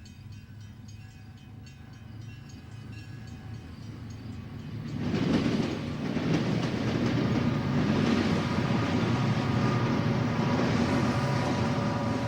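Diesel freight train locomotives approaching and passing, the engine drone growing louder, then jumping to a loud steady rumble about five seconds in.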